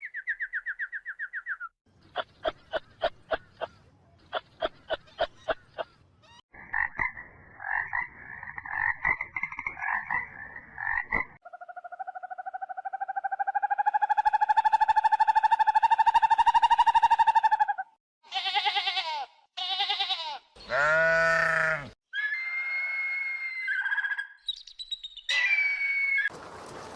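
A string of different animal calls cut one after another. First a short trill, then a run of quick croaking pulses and a chattering stretch, then one long call held for about six seconds, then several shorter calls.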